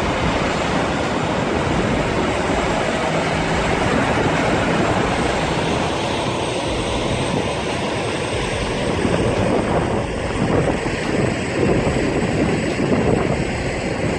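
Heavy truck engine running under load with a steady rumble and road noise.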